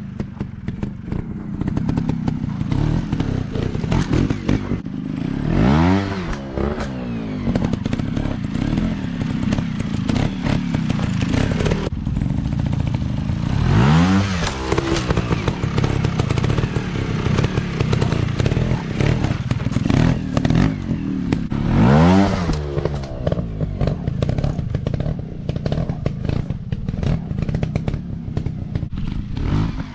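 Motocross bike engines running under load, with a rev that sweeps up and back down three times, about eight seconds apart, over a constant engine drone and some clattering.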